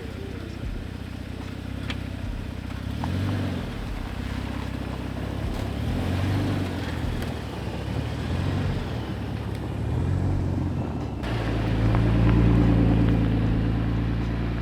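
Toyota Tacoma pickup driving, its engine running with the revs rising and falling every few seconds. About eleven seconds in the sound cuts abruptly to a louder, steadier low drone.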